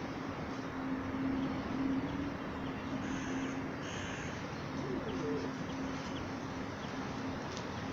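A few short, high bird chirps around the middle, over a steady low drone and outdoor background noise.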